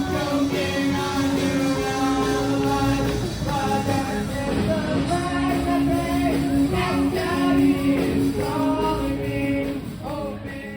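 A rock band playing with a lead singer, sung notes held over guitar and drums.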